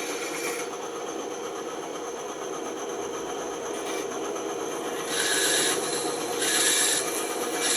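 Band saw running steadily. From about five seconds in, the blade cuts into wood three times in short passes, each louder with a sharp hiss.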